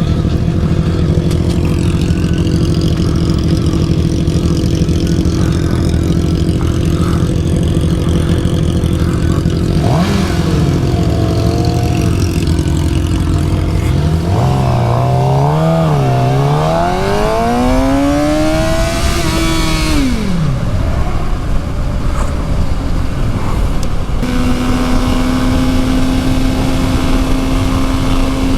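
Suzuki GSX-R750's inline-four engine under way: steady at first, then rising and falling in revs as the throttle is worked, with a long climb in pitch that breaks off about twenty seconds in, and settling to a steady tone near the end.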